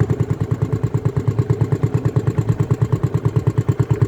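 An engine idling with an even, steady low thumping of about eight pulses a second.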